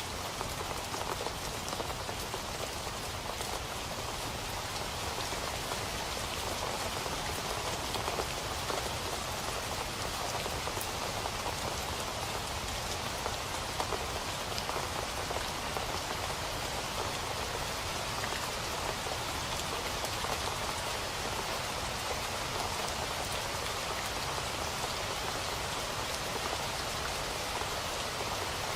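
Steady rain falling on a hard surface: a dense, even patter of drops with many small individual ticks and no letup.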